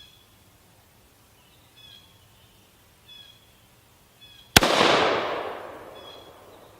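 A single AR-15 rifle shot about four and a half seconds in, its echo dying away over about two seconds. Faint short bird chirps repeat every second or two.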